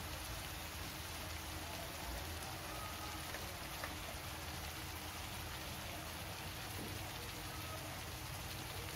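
Onion, tomato and spice masala sizzling steadily in hot oil in a steel kadai.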